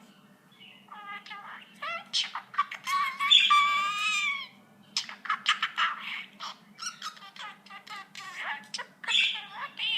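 Pet budgerigar chattering: a rapid run of chirps, clicks and short squawky warbles, with a longer warbling call about three seconds in.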